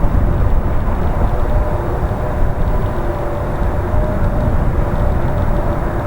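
Bombardier (Mitsubishi) CRJ-200's twin rear-mounted turbofan jet engines running, a steady low rumble with a faint whine above it.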